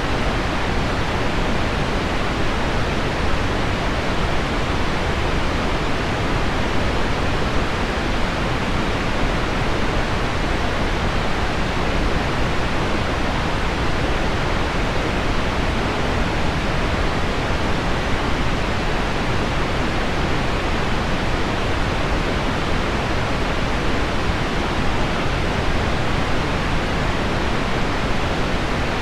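Steady pink noise blended with heavy rain on window glass: a deep, even hiss that does not change, with no single drops standing out.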